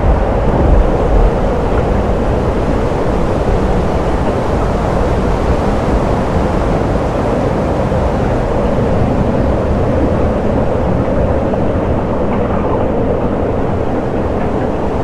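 Thunderstorm sound effect: a continuous, loud low rumble of rolling thunder, with a few louder swells in the first second or so.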